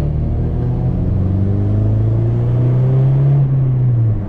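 Car engine accelerating under load, its note climbing steadily for about three seconds, then falling off sharply near the end, as at a gear change or lift-off.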